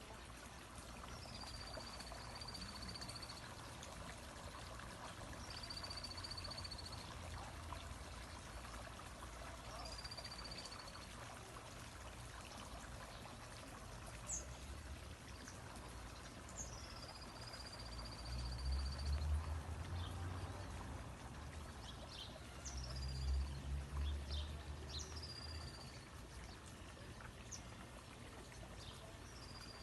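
Water running steadily, with a bird repeatedly giving a short, high, falling call about every four seconds. Twice around the middle a low rumble rises over it.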